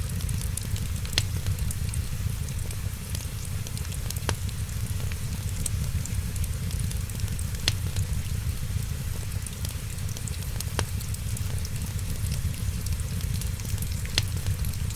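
Wood fire crackling steadily in a fireplace over a low rumble, with sharp pops about every three seconds.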